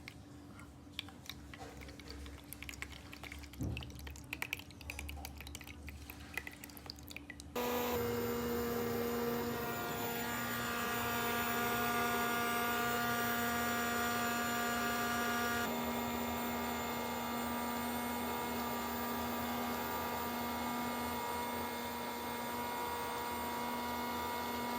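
Light clicks and taps, like small plastic toy pieces being handled. About a third of the way in, a louder steady hum of several held tones starts suddenly and carries on, its tones shifting slightly around the middle.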